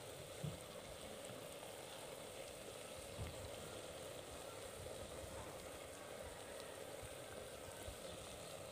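Bitter gourd, onions and green chillies sizzling faintly in a clay pot over a low flame: a steady low hiss, with a couple of soft knocks.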